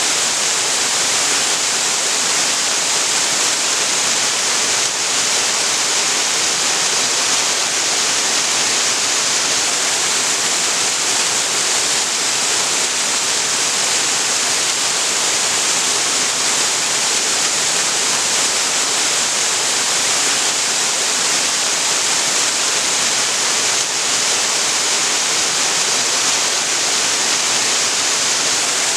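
Waterfall rushing steadily, a dense even hiss of falling water.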